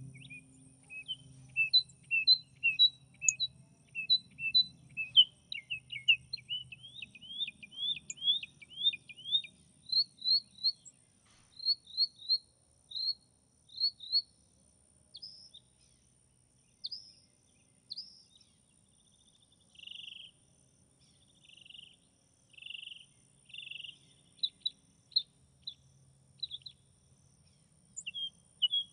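Bird chirping: long runs of short, high, quickly repeated notes, some sliding down in pitch, broken by a few harsher, raspy calls about two-thirds of the way through.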